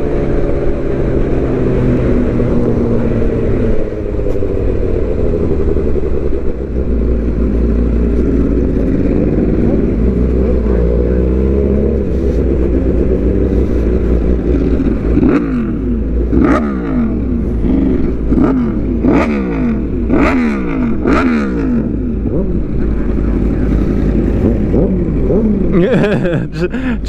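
Suzuki GSX-R750 inline-four sport bike with aftermarket headers and slip-on exhaust, cruising at a fairly steady pitch at first. About halfway through it starts revving up and down in quick repeated sweeps through the gears, with a few sharp cracks.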